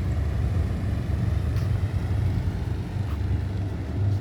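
Motorcycle engines running at low speed as the escort riders manoeuvre, a steady low rumble without sharp revving.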